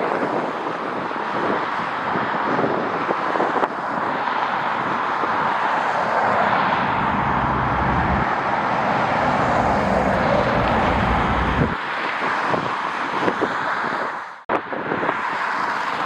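Jet airliner passing with a steady rushing engine noise, a deep rumble swelling through the middle and then dropping away. Wind buffets the microphone. The sound cuts out briefly near the end.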